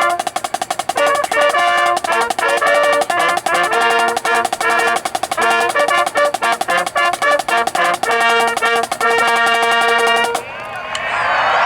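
Marching band playing held brass chords over rapid snare drum strokes. The music stops about ten and a half seconds in, and crowd noise and applause rise.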